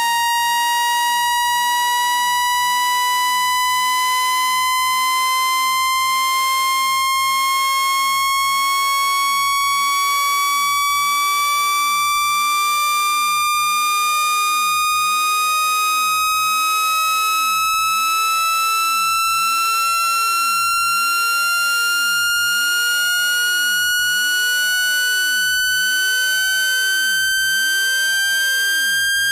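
Electronically generated tone, rich in overtones, sliding slowly and steadily upward in pitch: a water-eject speaker-cleaning sound meant to vibrate water out of a phone speaker.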